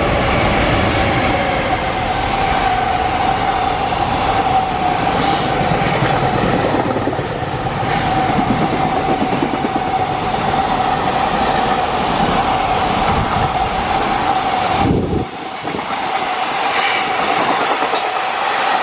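JR Freight train of container flatcars behind an EF210 electric locomotive passing close by, wheels clattering over the rail joints, with a steady ringing tone over the rumble. The low rumble drops away suddenly about fifteen seconds in.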